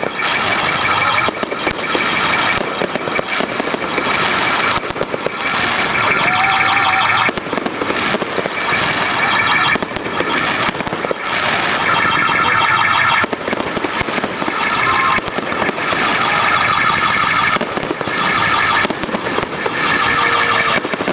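Dense fireworks barrage: a continuous rapid crackle of bursts, with shrill whistling tones coming and going every few seconds.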